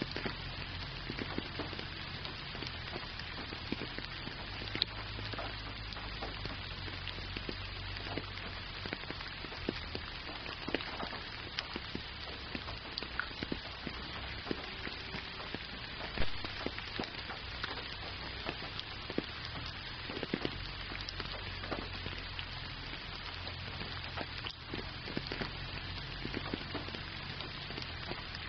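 Rain falling steadily: a dense hiss full of separate drop hits, with a low rumble underneath.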